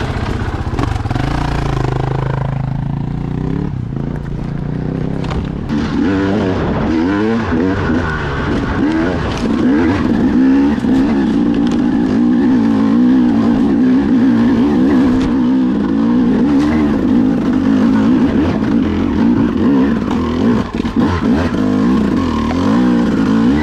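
Dirt bike engine heard from on the bike: running fairly steadily at first, then louder from about six seconds in as it is ridden under throttle, its pitch rising and falling with the throttle.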